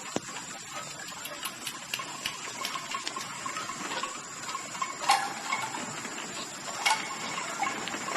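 Bats squeaking and clicking in scattered, irregular bursts, with two louder squeaks about five and seven seconds in, over a steady high hum.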